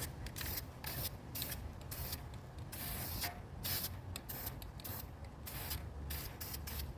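Krylon Covermax aerosol spray paint can hissing in many short, irregular bursts as a light coat is sprayed on, with wind rumbling on the microphone.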